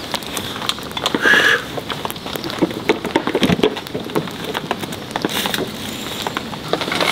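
Light rain pattering and dripping on a tarp, many small drops falling at irregular intervals.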